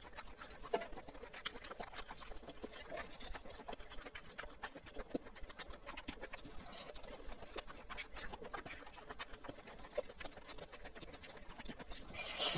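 Close-miked eating sounds: soft, wet chewing and small mouth clicks as spoonfuls of spicy squid rice are eaten, with a louder burst of noise near the end.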